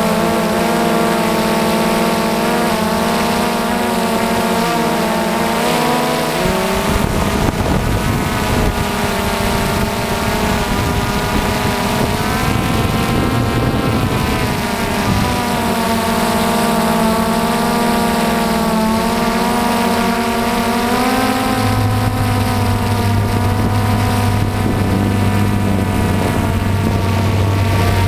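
DJI Phantom FC40 quadcopter's motors and propellers whining in flight. Several pitches slide up and down as the motors change speed. A rushing wind noise joins in about six or seven seconds in.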